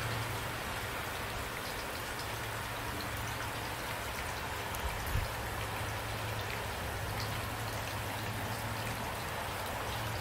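Steady rain falling, with individual drops ticking over an even hiss and a low steady rumble underneath.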